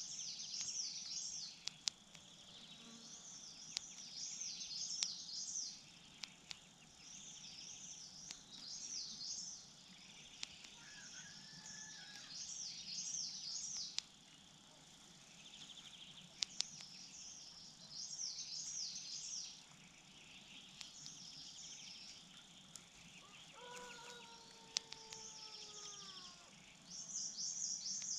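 Outdoor ambience: a songbird sings short, rapid, high-pitched phrases every few seconds over a steady insect drone, with scattered sharp clicks. Near the end a lower, falling call is heard.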